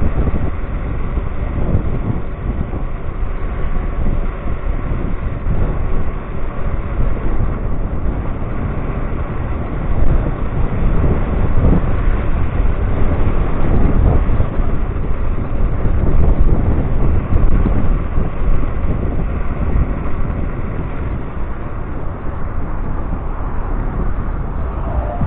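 Wind buffeting the microphone and rolling tyre noise from an electric scooter on the move, with a faint steady whine underneath.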